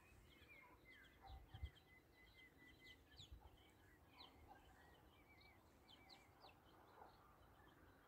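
Faint chirping of small birds: many short high notes scattered throughout, with a quick run of evenly repeated notes between about one and two seconds in.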